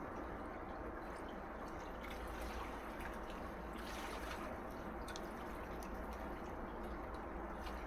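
Small sea waves washing on a shore: a steady wash of water with scattered small drips and ticks, one wave swelling about four seconds in.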